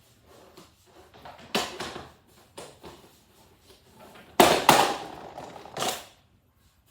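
Hard clicks and knocks of plastic toy car parts being handled and fitted together, a few louder knocks near the middle and end.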